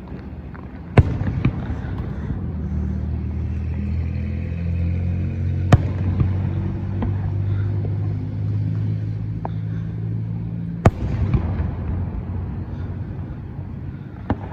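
A vehicle engine running steadily at low revs, with four sharp bangs over it, spaced several seconds apart.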